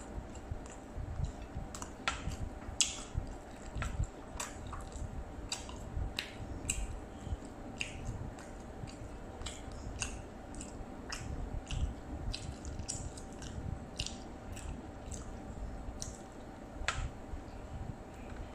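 Mouth sounds of a person eating fried jengkol (dogfruit) by hand: wet chewing with irregular sharp smacks and clicks.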